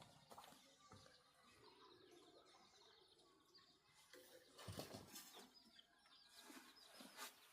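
Near silence, with faint bird chirps in the second half and a few soft knocks about five seconds in.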